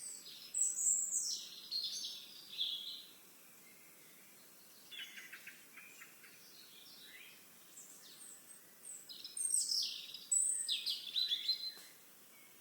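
Songbirds singing in bright, quick chirps and trills, in three bursts: about half a second in, again around five seconds, and a longer, louder burst from about nine seconds to near the end.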